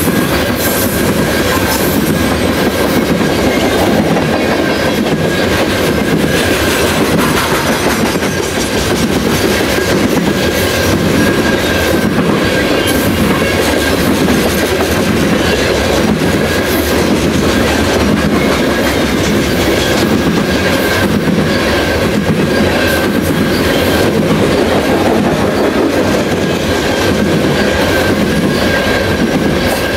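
Long freight train of coal hopper cars rolling past close by: a steady rumble of wheels and trucks with irregular clacks on the rails. A thin, steady high whine runs through it.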